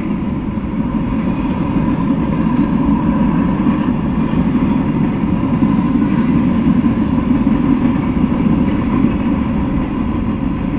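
Freight train of covered hopper cars and boxcars rolling past, steel wheels on rail making a loud, steady rolling noise.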